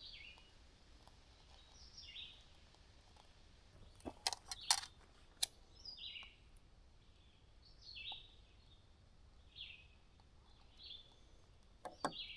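A bird calling faintly and repeatedly, short down-slurred notes about every two seconds. A few sharp clicks about four to five seconds in.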